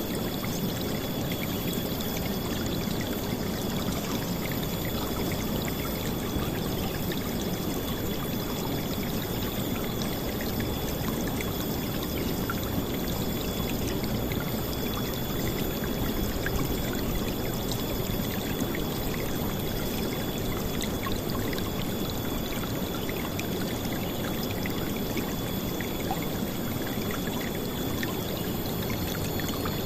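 River water rushing and splashing steadily with a full, low-heavy sound and no let-up.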